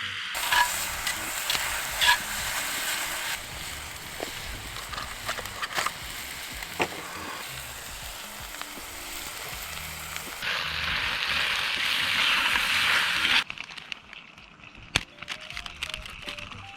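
Food sizzling in a hot pan, a steady hiss with scattered pops. The sound changes abruptly several times and turns quieter near the end, leaving only occasional ticks and clicks.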